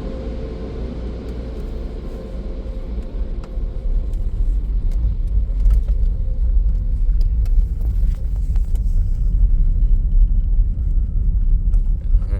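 Deep, steady car rumble. A faint hum fades away over the first few seconds, and scattered light clicks come through in the second half.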